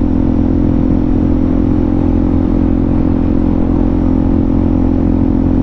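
Suzuki DRZ400SM's single-cylinder four-stroke engine running steadily while cruising at a constant speed, its pitch holding level.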